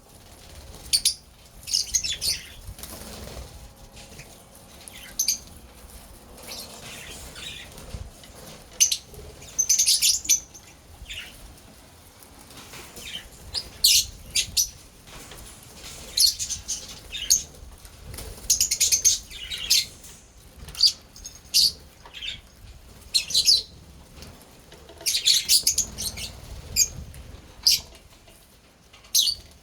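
Lovebirds chirping in short bursts of high, squeaky calls, coming irregularly every second or few seconds.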